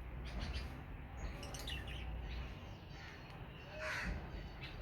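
A flock of lovebirds calling: scattered sharp, harsh chirps and short squawks, with a louder burst of calls about four seconds in.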